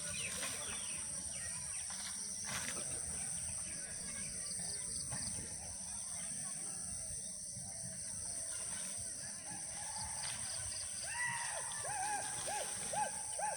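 Steady high-pitched insect drone over a low outdoor rumble, with a quick run of five or six short, arching bird calls about eleven seconds in.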